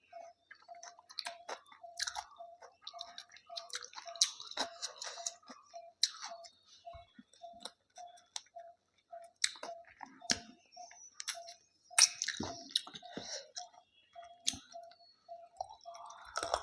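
Close-up chewing and mouth sounds of a person eating a rice and chicken meal, with irregular wet smacks and clicks. Under it, a faint short tone repeats evenly about two and a half times a second.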